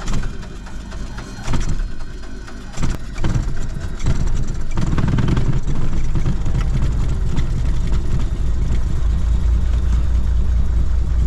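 Cessna 182's piston engine starting, heard from inside the cabin: a few seconds of uneven cranking and coughing as it catches, then running steadily from about four and a half seconds in.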